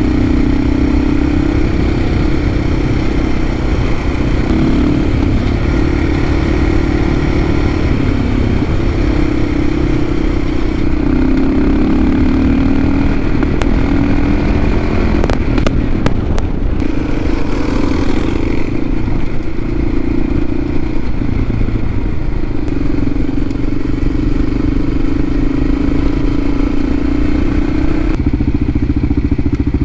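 Motorcycle engine running under way, its note rising and falling as the throttle opens and closes, over a heavy low rumble. A few short sharp clicks about halfway through.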